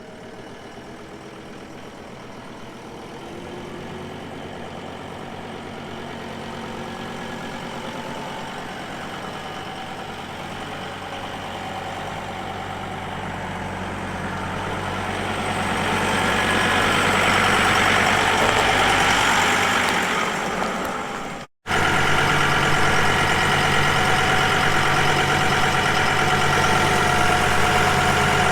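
John Deere farm tractor's diesel engine running steadily, getting louder over the first twenty seconds. It breaks off for an instant about three-quarters of the way through, then comes back louder and steady.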